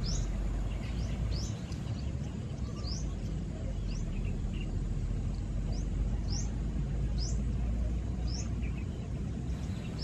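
Birds chirping: short, quick, high chirps about once a second, over a steady low rumble of outdoor background noise.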